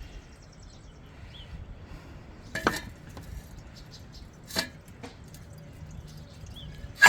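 A few sharp metallic clinks and knocks of tools and metal parts being handled during mower fuel-system work. The last one, near the end, is the loudest and rings briefly.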